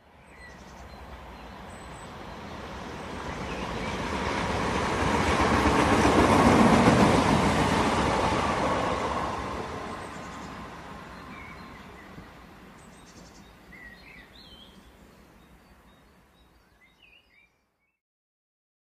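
Passenger train running along the track: a rushing noise of wheels and wind that swells to its loudest about six or seven seconds in, then dies away.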